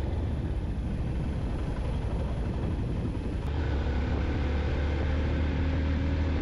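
Yamaha FZ-X motorcycle riding along, its single-cylinder engine running steadily under a low rumble of road and wind noise.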